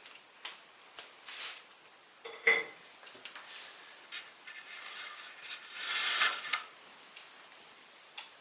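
Kitchenware clinking and clattering in a small room: light taps, one sharp ringing clank about two and a half seconds in, and a longer clattering scrape about six seconds in.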